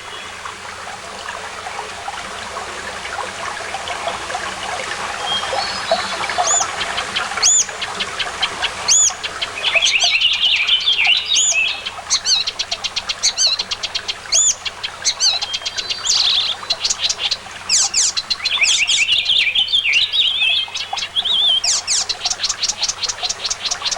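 Small birds chirping: a sharp chirp repeated about every one and a half seconds, buzzy calls in between, and a fast run of rapid chirps near the end.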